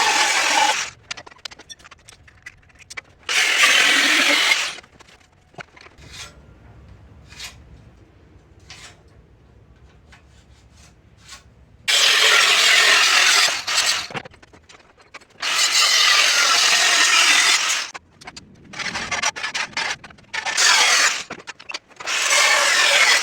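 A power tool working steel in short spells of one to two seconds each, with light clicks and knocks in between.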